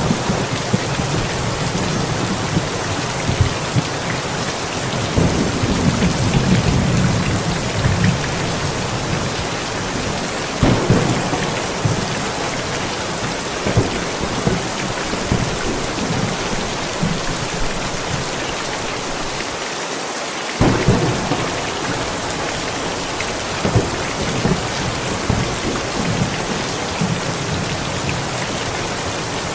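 Steady rain falling, with thunder rumbling low and repeatedly throughout; a longer roll comes about five to seven seconds in.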